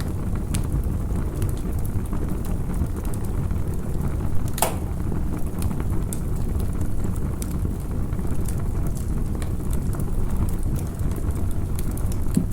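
Campfire crackling, with scattered sharp pops and one louder pop about four and a half seconds in, over a steady low rumble.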